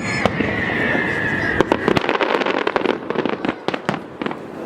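Aerial fireworks going off: many sharp bangs and crackles, coming thick and fast from about two seconds in. A high, steady whistle sounds over them until about a second and a half in.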